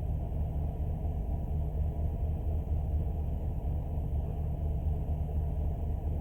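Steady low rumble of a vehicle engine running, with no change in pitch or level.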